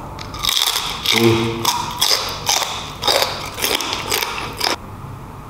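Close-miked eating of beef: wet chewing, sucking and lip-smacking in a quick run of sharp clicks, with a short hummed 'mm' about a second in. The eating sounds stop shortly before the end.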